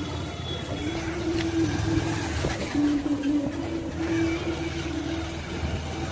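Motorcycle running while being ridden: a steady low rumble of engine and wind, with a humming tone that shifts up and down in pitch from about a second in until near the end.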